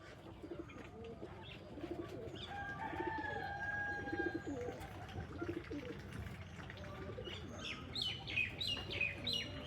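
Domestic pigeons cooing over and over in low pulsed phrases, with a run of quick, high, falling chirps near the end.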